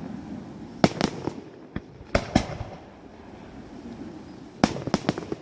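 Fireworks display: shells bursting with sharp bangs in irregular clusters, a run of reports from about one to two and a half seconds in and another quick cluster near the end, over a steady background hum.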